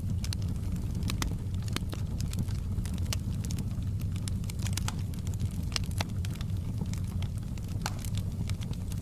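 Wood fire in a fireplace crackling, with many sharp, irregular pops and snaps over a steady low rumble.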